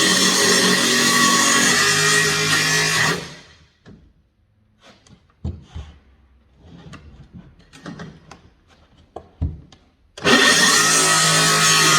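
Circular saw running and cutting into a wooden stair tread, shut off about three seconds in and spinning down. Several seconds of scattered clicks and knocks follow, then the saw starts again suddenly near the end.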